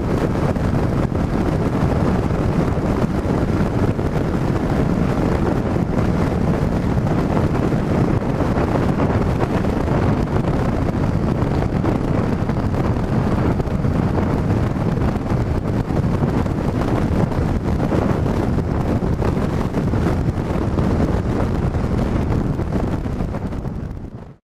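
Wind buffeting the camera microphone while riding a motorcycle at speed, with the engine and road noise of the Yamaha XJ6 F underneath as a steady rush; it cuts off suddenly near the end.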